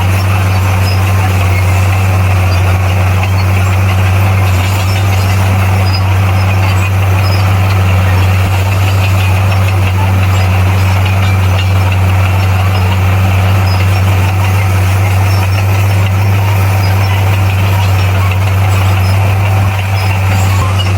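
Bulldozer's diesel engine running steadily under load, a loud, even low drone.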